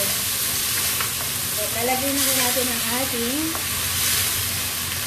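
Tofu and chopped vegetables sizzling in a hot frying pan, stirred and tossed with a wooden spatula.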